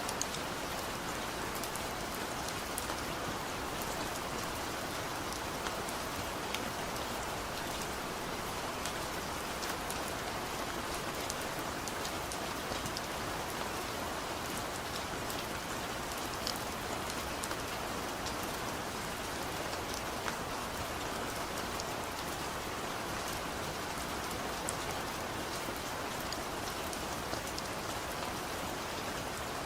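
Heavy rain falling steadily, a dense even hiss with many small sharp drop ticks.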